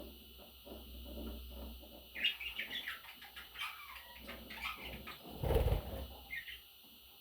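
Pet budgerigars chirping in short, quick high notes, mostly in a run about two seconds in. A short loud rustle comes about five and a half seconds in, followed by one more chirp.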